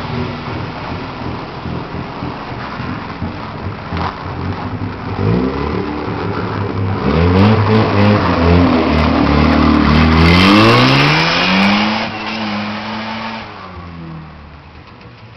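Mazda RX-7's twin-rotor Wankel rotary engine idling, then revving as the car pulls away. The pitch climbs to its loudest, dips and climbs again, then fades as the car drives off.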